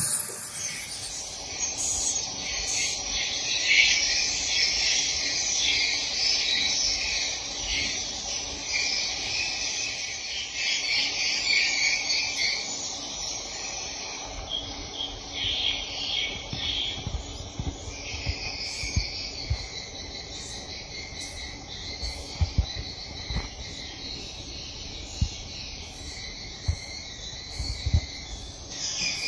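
Swiftlets twittering: a dense, continuous high-pitched chatter of buzzy chirps, louder in the first half. Scattered soft low knocks run under it in the second half.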